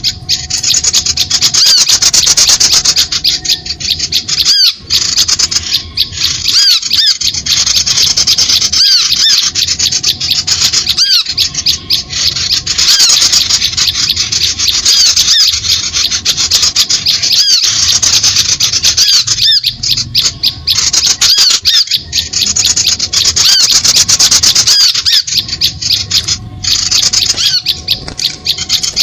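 Bird-lure recording of many small birds calling at once: a dense, loud, harsh chattering of rapid high-pitched chirps and raspy notes, broken by short drops every few seconds.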